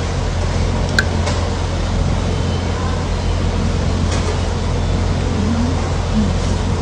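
A steady low rumbling noise with a single sharp click about a second in.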